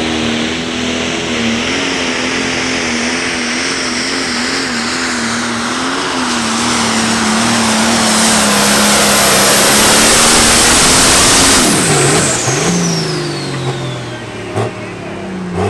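1972 International 1066 light pro stock pulling tractor's turbocharged diesel running flat out under load, its pitch wavering as it pulls. About twelve seconds in it backs off, the engine note drops and a high turbo whine winds down.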